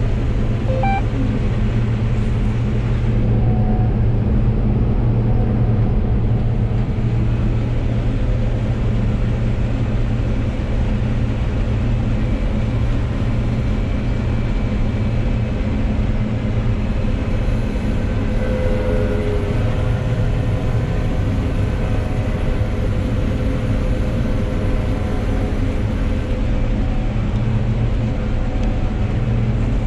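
John Deere 9760 combine running steadily under load while harvesting wheat: a constant low engine and machine drone that holds level throughout.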